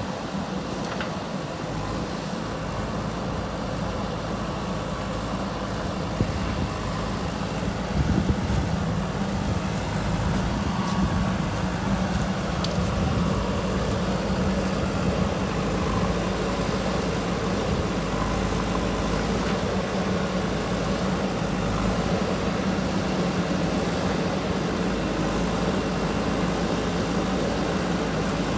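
JCB 3DX backhoe loader's diesel engine running steadily under working load, its note growing louder about eight seconds in and holding there. A few brief clunks come around that point.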